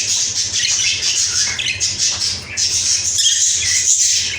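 Caged budgerigars chattering and squawking without a break, a dense high-pitched twittering over a steady low hum.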